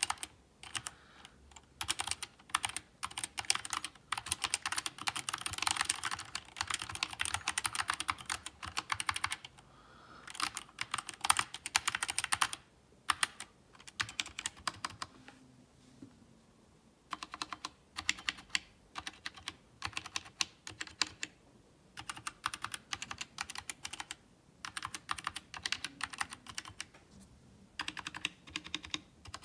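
Typing on a Nature ergonomic mechanical keyboard with Gateron optical switches and OEM-height two-shot ABS keycaps. Fast runs of key clicks are broken by short pauses.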